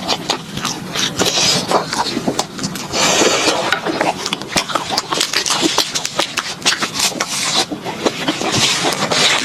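Close-miked chewing of fried skewered food: dense quick clicks, crackles and wet mouth sounds, with short hissy bursts a few seconds in and near the end.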